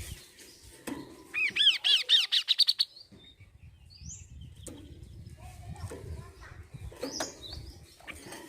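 Kaso-kaso bird song: a fast run of loud, arching chirps, roughly eight a second, starting about a second in and lasting under two seconds. A short rising note and a few scattered calls follow later.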